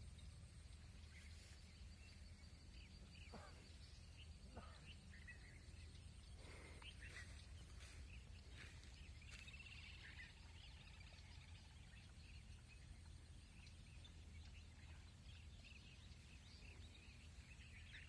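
Near silence: faint, scattered bird chirps over a low steady rumble of outdoor ambience.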